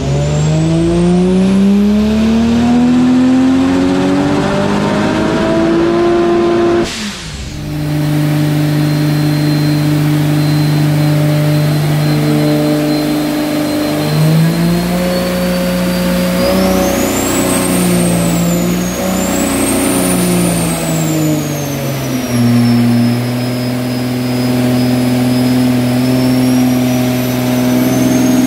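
Turbocharged 2JZ straight-six of a Toyota Supra JZA80 running loud on a hub dyno through a 4-inch exhaust with no catalytic converter and the wastegate venting through a screamer pipe. Revs climb steadily for about seven seconds, drop sharply, and hold. They then rise and waver again with a high whine over the top, and settle back to a steady hold near the end.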